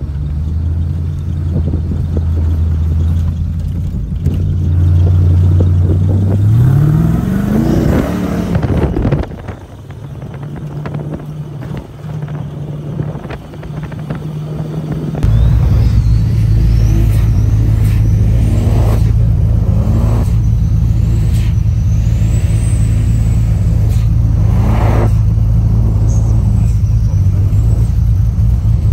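Off-road vehicle's engine running while driving over sand, revving up about seven seconds in and falling off about two seconds later. From about halfway it becomes a louder, steady low rumble, with short revs rising and falling over it and a few knocks.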